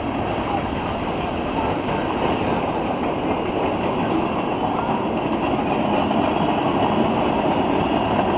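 Train running close by: a dense, steady rumble of wheels and rolling stock on the rails, growing slowly louder.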